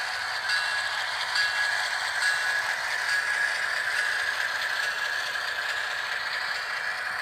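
Train passing close by: steel wheels clattering and clicking over the rails, with a steady high-pitched squeal.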